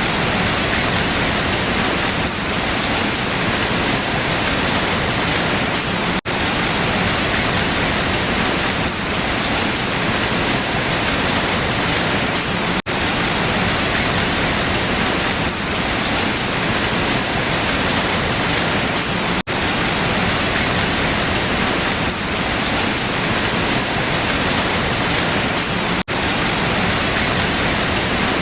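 Steady rain falling on leaves, an even, unbroken hiss, with a split-second gap in the sound about every six and a half seconds.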